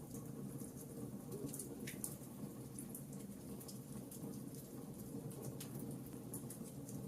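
Fireplace fire crackling: scattered small pops and ticks over a low, steady rush of burning.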